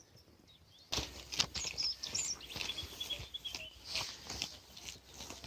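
Wild birds singing, with chirps and a short trill, over scattered light rustles and clicks; all of it starts about a second in, after near silence.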